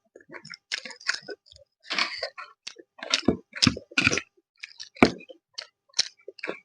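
A person chewing and biting food close to the microphone in a series of irregular, uneven mouth sounds, with some crunchy bites.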